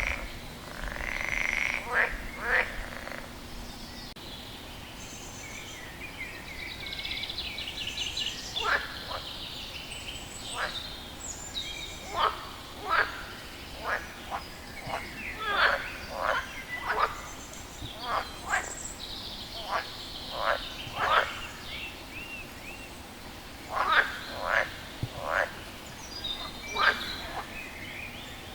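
A frog calling over and over: short, sharp calls at irregular intervals, some coming in quick pairs, with fainter higher chirps between them.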